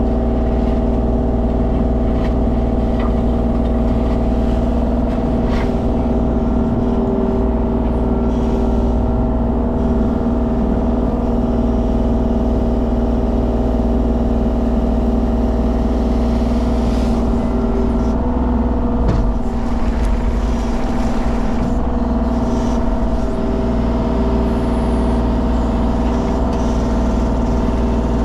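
Mini excavator's diesel engine running steadily under hydraulic working load, with scattered clicks and knocks.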